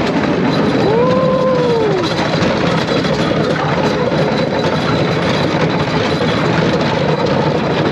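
Bamboo train (norry) running along the rails: its small motor and the wheels on the thin track make a steady, dense rumble. A short tone rises and falls about a second in.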